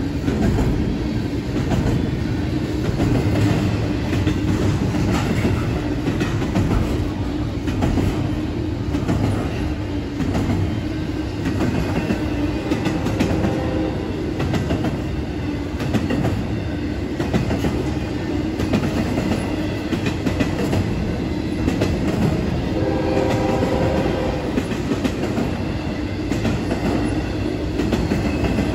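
Double-stack intermodal freight cars rolling steadily past at a grade crossing: a continuous rumble with wheels clacking over the rail joints.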